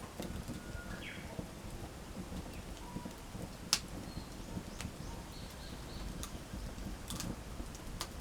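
Wood fire burning with a steady low crackle and a few sharp pops, about four of them, spread through the middle and end.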